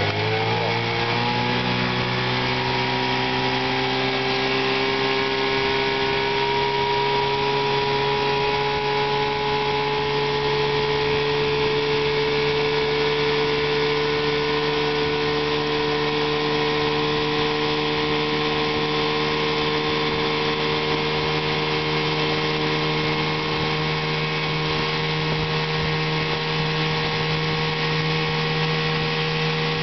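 1974 Chrysler-built Sea King 10 hp two-stroke outboard motor running; its pitch rises over the first second or two as it speeds up, then holds steady.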